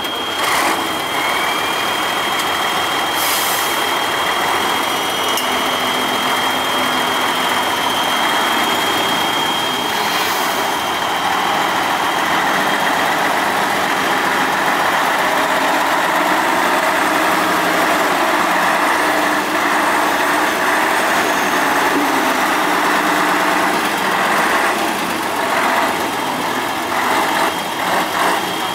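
Praga V3S 6x6 truck's air-cooled six-cylinder diesel running under load, its engine note rising and falling as the throttle is worked, with a steady high whine over it.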